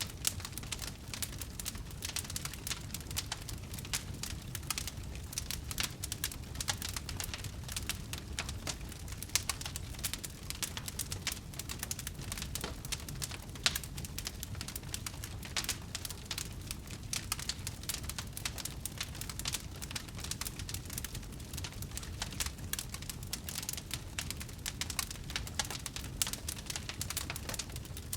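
Wood fire crackling: a dense, steady patter of small sharp pops and snaps over a low constant rumble, with an occasional louder pop.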